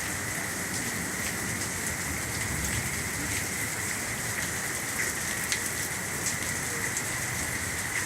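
Heavy rain of a sudden downpour falling steadily, with the sharp ticks of drops striking close by.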